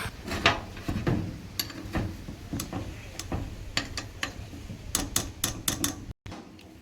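Irregular sharp metallic clicks and taps of hand tools on diesel fuel-pump fittings, about one or two a second, with a quick run of several clicks about five seconds in.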